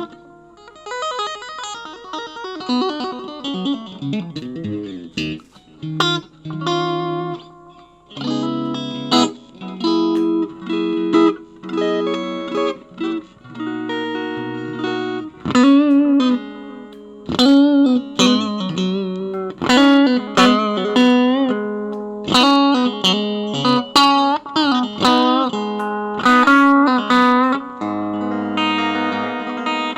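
Bacchus Universe-series electric guitar played solo: single-note melodic lines and quick runs, with wavering vibrato on held notes in the middle stretch.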